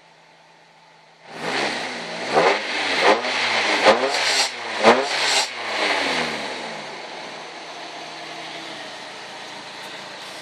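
Nissan SR20DET turbocharged 2.0-litre four-cylinder idling, then revved repeatedly from about a second in, the engine speed rising and falling about five times before it drops back to a steady idle.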